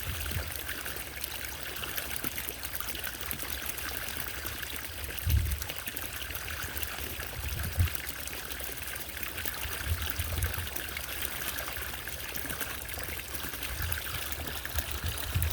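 Small solar fountain's water trickling and splashing steadily, with a few soft low thumps scattered through.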